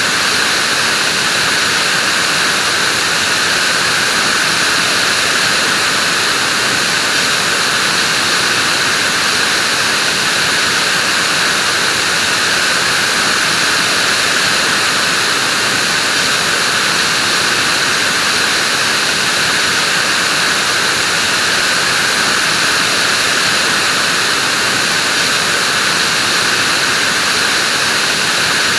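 Vacuum cleaner running steadily: an even hiss of rushing air and motor that holds the same pitch and level throughout.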